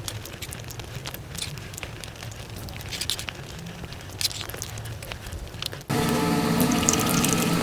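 Close-miked eating sounds of cake and sweets sped up to five times speed: scattered wet mouth clicks and squishy chewing. About six seconds in, an abrupt cut to a louder passage with held, steady tones under the chewing.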